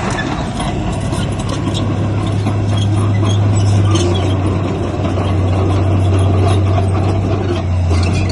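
Heavy diesel engine of an earthmoving machine running steadily under load, a strong low drone.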